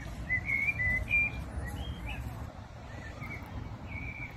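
A songbird calling: a run of short, clear, high notes in the first two seconds, then a few more and a longer note near the end, over a low background rumble.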